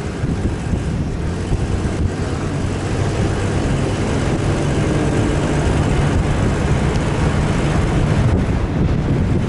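Off-road vehicle engine running steadily under load, mixed with wind and driving noise on the microphone.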